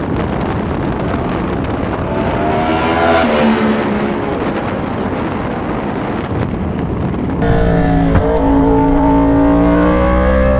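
Yamaha R1's crossplane inline-four with SC Project exhaust, riding along under heavy wind rush on the microphone; the engine note climbs and then drops about three seconds in. After a cut about seven seconds in, the engine is louder and clearer over the wind, its pitch drifting up and down.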